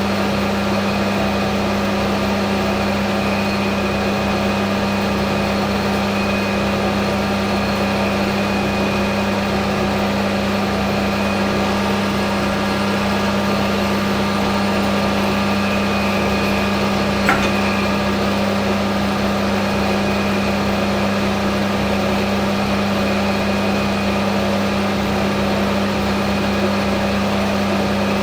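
Hafco AL960B metal lathe running under a cut: a steady motor hum with a faint high tool squeal that comes and goes. One short click about two-thirds of the way through.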